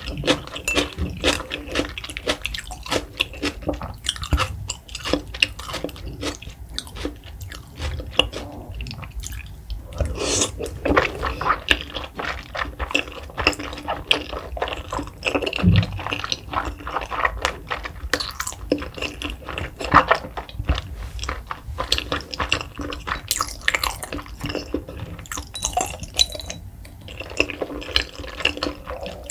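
Close-miked wet chewing of raw salmon sashimi: soft, moist squelches and lip and mouth smacks, closely and irregularly spaced.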